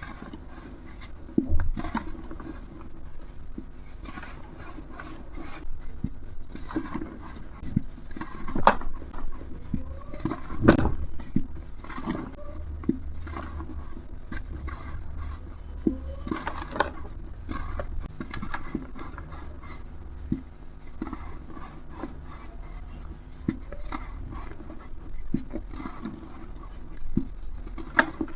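A brittle material being crumbled and crushed: a steady run of small crackles, taps and scrapes, with a few louder snaps.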